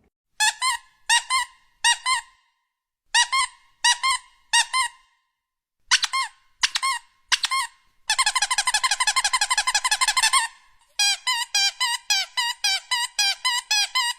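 High-pitched squeaks in three groups of three, then a fast continuous warble lasting a couple of seconds, then a rapid string of squeaks.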